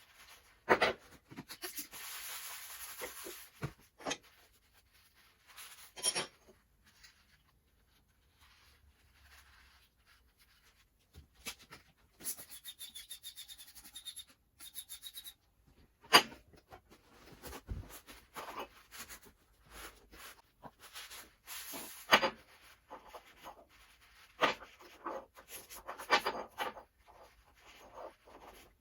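Workshop handling noises: scattered clicks and knocks of tools and metal parts, with a few stretches of rubbing or scraping, about two seconds in and again around twelve to fifteen seconds in.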